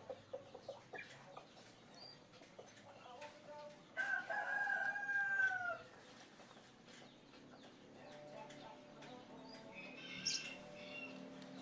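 A rooster crowing once, a single drawn-out call of about two seconds that starts sharply and drops in pitch at the end, over faint background clucking and small clicks.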